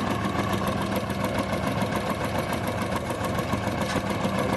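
An engine running steadily at idle, with a fast, even ticking.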